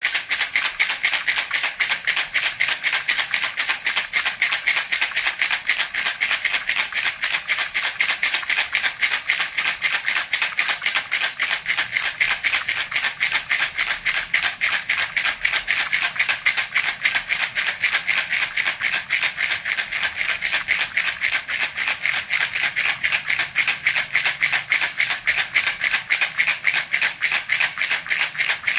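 Baby's toy rattle (jhunjhuna) shaken steadily and quickly, a continuous, even rattling of small beads in its shell.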